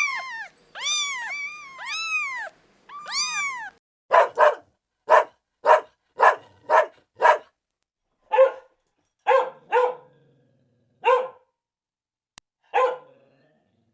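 A cat meows a few times in long, arching cries. About four seconds in, a dog starts barking: about a dozen short, sharp barks, in a quick run at first and then further apart.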